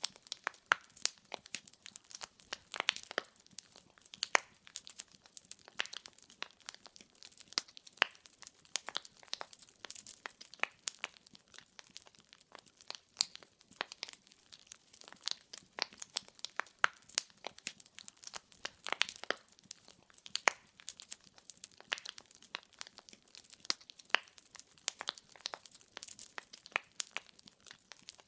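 Firewood burning in a fireplace, crackling and popping in a steady stream of irregular sharp snaps.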